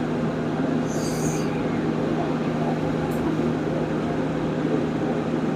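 Steady mechanical drone with a constant low hum, which builds up just before and holds; a short high squeak comes about a second in and a faint click near the middle.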